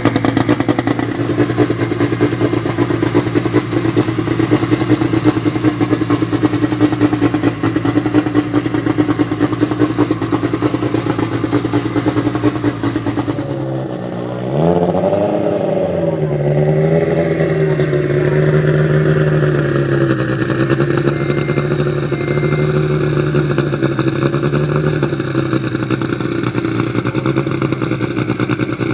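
Turbocharged four-cylinder engine of a 1000+ hp Lancia Delta EVO drag car idling with a choppy beat. About halfway through it is revved, rising and falling in pitch a few times, then settles into a steady, higher idle.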